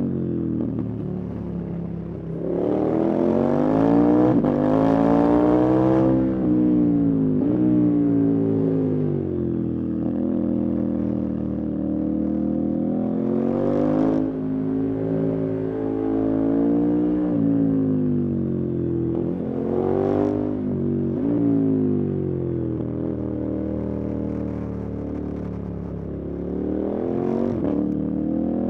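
A motorcycle engine riding under load: its note climbs and falls repeatedly as the throttle is opened and closed, with sudden drops in pitch about a sixth of the way in, near the middle, about two-thirds in and near the end.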